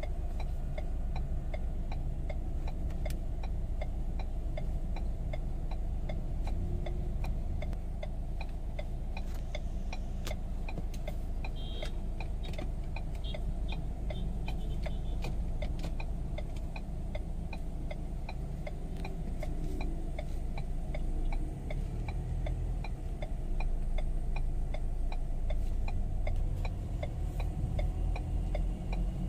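2018 Ford Ranger 2.2 L four-cylinder diesel idling, heard from inside the cab, with the hazard-light flasher ticking steadily over it.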